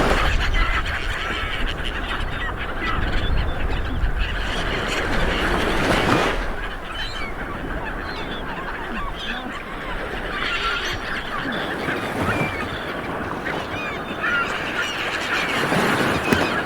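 Light surf washing onto a beach, swelling and easing with each wave, with many short bird calls overhead.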